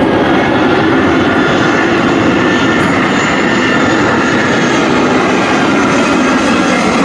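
Aircraft engines running loud and steady, a dense roar with a faint high whine over it.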